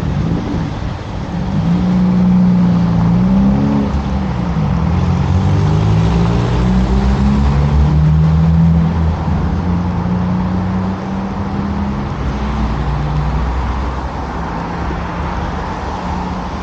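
A car's engine running close by, its pitch rising and falling as it accelerates, loudest in the first half and easing off after about eleven seconds.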